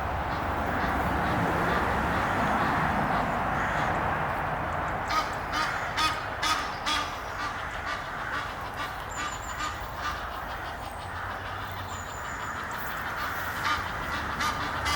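Egyptian geese honking: a run of about five short harsh calls some five seconds in, then a few fainter ones near the end, over a steady background hiss.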